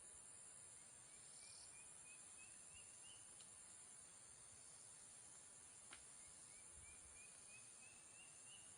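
Faint outdoor insect chorus, a steady high buzz of crickets, with twice a run of about ten short chirps that climb step by step in pitch, and a single click about six seconds in.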